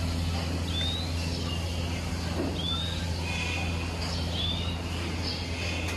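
A bird repeats a short rising chirp every couple of seconds over a steady low hum.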